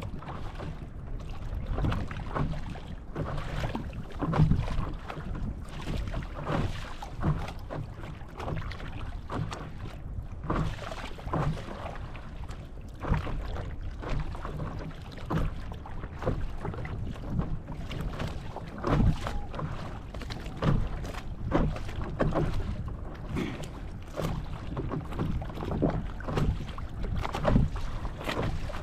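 Paddle strokes splashing and water slapping against a paddle board on choppy water, with wind rumbling on the microphone.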